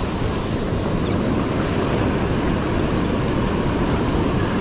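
Steady rush of ocean surf, with wind noise on the microphone.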